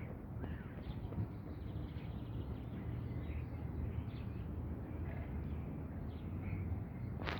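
Faint short bird calls scattered over a steady low outdoor rumble.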